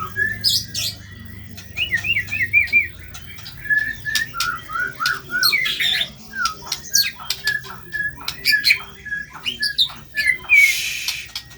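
White-rumped shama song from a bird-training recording: a busy run of short rising whistled notes repeated in series, mixed with sharp clicks, and a harsh rasping burst near the end.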